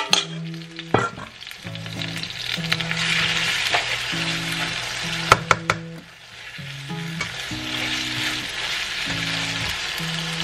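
Flaked skipjack tuna with shallots and chilies sizzling as it is stir-fried in a nonstick pan, a plastic spatula scraping and knocking against the pan a few times. Background music with steady notes plays underneath.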